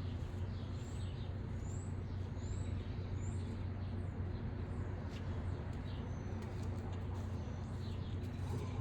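Birds chirping over a steady low hum, with a few short, high, rising chirps.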